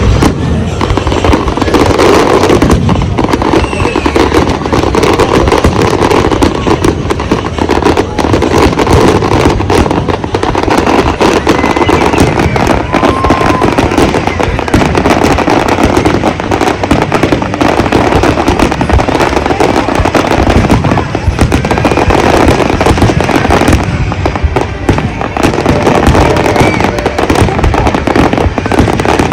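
Large fireworks display: a dense, continuous barrage of bangs and crackling shells with no let-up.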